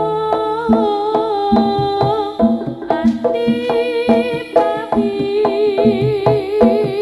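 Live jaranan gamelan music: a sustained, wavering melody line over regular drum strokes about twice a second.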